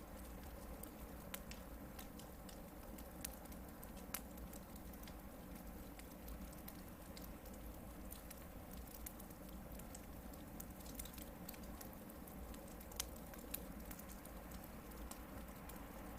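Hardwood campfire burning: scattered sharp crackles and snaps over a soft, steady flame noise, with a few louder pops.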